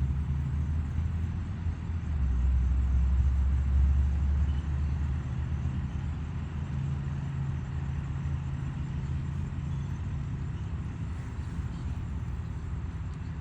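A motor vehicle's engine running nearby, a steady low rumble that grows louder about two seconds in and eases back a couple of seconds later.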